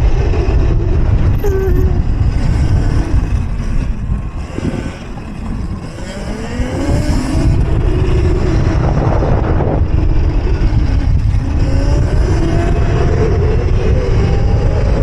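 Electric mini bike's motor whining as it is ridden, its pitch falling and rising with speed. It eases off about five seconds in, then climbs again as the bike picks up speed. Heavy wind rumble on the microphone runs underneath.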